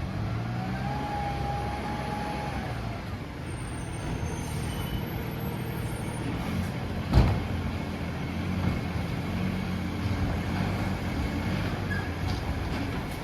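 Freightliner M2 side-loading garbage truck running, its engine a steady low drone. A brief whine sounds in the first couple of seconds, and a single sharp bang comes about seven seconds in.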